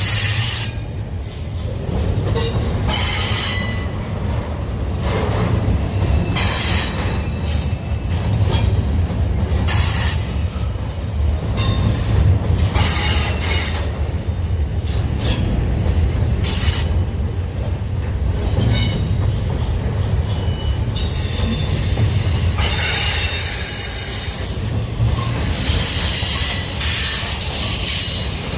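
Union Pacific intermodal freight train rolling past, its cars making a steady low rumble broken by repeated high-pitched wheel squeals every second or two.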